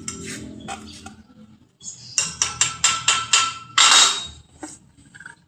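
Hammer striking metal: about seven quick ringing blows, then a louder clatter near the end.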